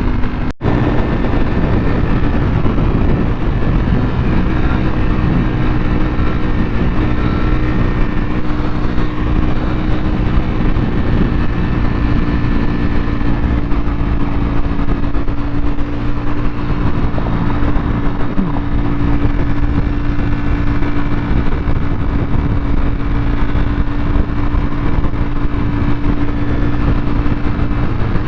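Sportbike engine running at a steady note while under way, over a steady rush of road noise. The sound drops out for an instant about half a second in.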